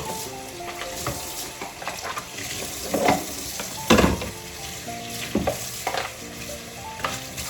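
Rubbing and scraping noises with several sharper knocks, from a plastic container being scrubbed and handled, over soft background music.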